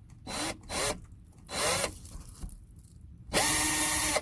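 Power drill started in three short bursts, its motor pitch rising and falling, then run steadily for about a second near the end while drilling a hole in the table.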